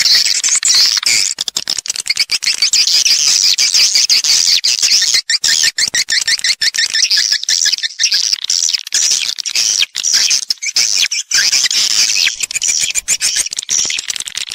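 Edible-nest swiftlets calling in a dense, unbroken chatter of rapid high twittering chirps. This is the call-and-roost sound played to lure swiftlets into a nesting house.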